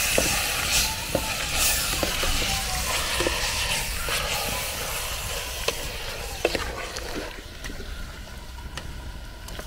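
Chopped pumpkin sizzling as it fries in a pot, with a metal spoon scraping and clicking against the pot as it is stirred. The sizzle grows quieter in the last few seconds.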